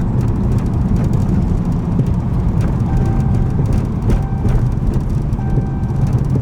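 Dodge Scat Pack's 392 Hemi V8 exhaust drone while cruising, a steady low rumble with no revving.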